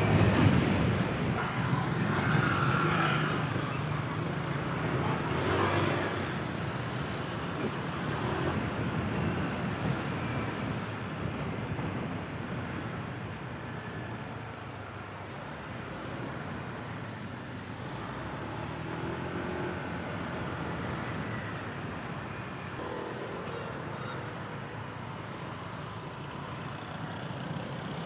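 Honda Click 125i single-cylinder scooter engine running under way, mixed with the hiss of surrounding city road traffic. It is louder in the first few seconds, then settles to a steadier, lower level.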